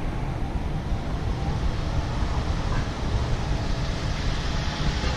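Steady outdoor rumble with wind buffeting the microphone, without distinct events.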